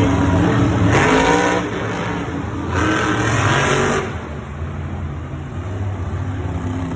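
Monster truck engines racing at full throttle, with two surges of hard revving about one and three seconds in, then dropping to a lower, steadier running about four seconds in.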